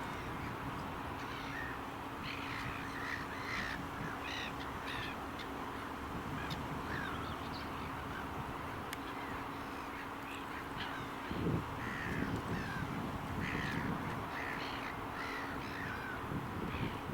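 Birds calling, many short calls one after another, over a steady low hum and a background wash of noise; a low rumble comes in about eleven seconds in.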